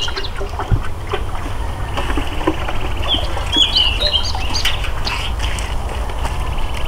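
Small birds chirping, with short high chirps bunched around the middle, over a steady low rumble and a few light knocks.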